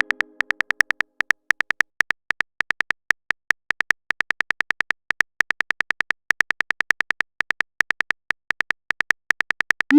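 A phone-keyboard typing sound effect: a quick run of short clicks, about five a second. A chime fades out in the first second, and a short rising swoosh, the message-sent sound, comes right at the end.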